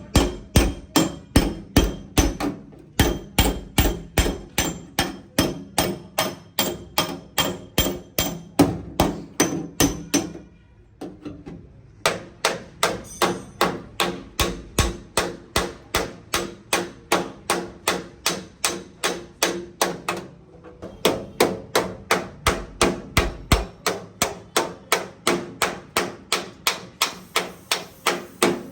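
Hammer blows on the sheet metal of a damaged car door being beaten back into shape, struck steadily at about three a second with a slight metallic ring, pausing briefly twice.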